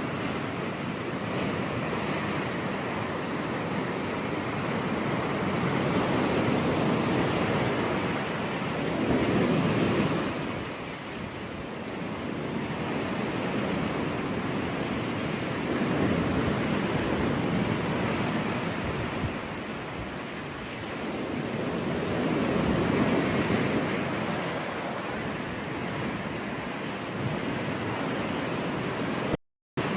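Ocean surf breaking and washing on a beach, a steady rush that swells and ebbs every few seconds as each wave comes in. The sound cuts out for a split second near the end.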